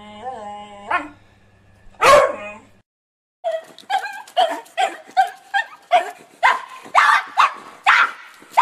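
Dogs barking. A held whine and a loud single bark come first. After a short gap, another dog barks in a rapid run of about three barks a second, growing louder.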